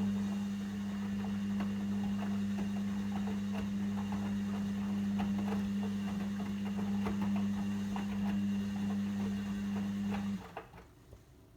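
Logik L712WM23 washing machine's drain pump running with a steady low mains hum and a light crackle of water passing through it, then cutting off suddenly near the end.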